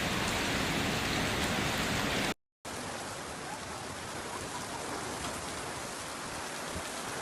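Heavy rain falling as a steady hiss. About two and a half seconds in it cuts out for a split second and comes back quieter, as another recording of rain.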